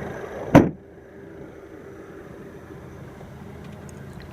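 Range Rover Evoque's 2.0-litre turbocharged four-cylinder engine idling, then switched off about half a second in with a single sharp thump. After that the running sound gives way to a quieter steady hiss.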